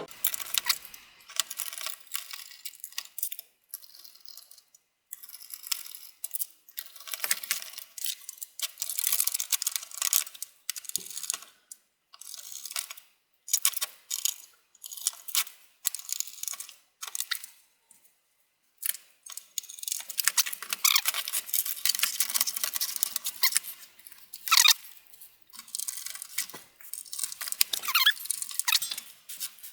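Irregular clicks, rattles and scrapes of metal and plastic parts being handled as a desktop computer power supply is reassembled, with short pauses and a busier stretch in the second half.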